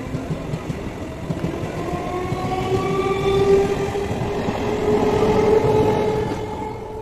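Eastern Railway EMU local train running past: wheels rumbling on the rails under a whine from the traction motors that rises slowly in pitch. The sound fades near the end as the last coach goes by.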